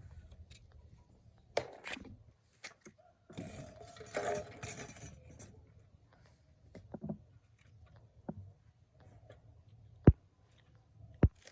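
Hand tools and metal engine parts being handled: scattered clinks and knocks, a stretch of scraping and rustling a few seconds in, and two sharp metallic clicks near the end.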